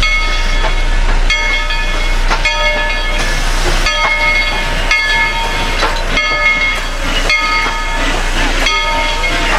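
A steam locomotive's bell ringing steadily, struck a little more than once a second, each strike ringing on into the next.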